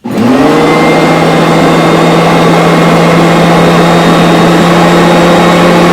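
Bissell BigGreen Commercial upright vacuum cleaner switched on: its motor spins up in a fraction of a second with a rising whine, then runs loud and steady with a strong hum under a rushing of air.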